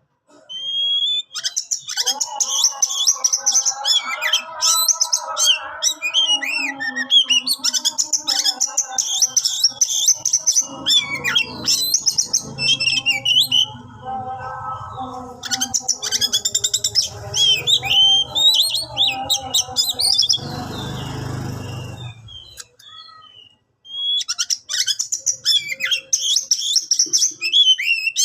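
Oriental magpie-robin singing: long runs of rapid, varied whistles and chattering notes with short pauses between phrases. A brief rustling noise comes in about 20 seconds in.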